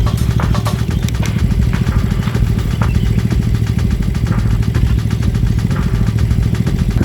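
Modified Yamaha Mio scooter's single-cylinder engine idling steadily with a rapid, even putt-putt, a sound likened to a klotok boat engine.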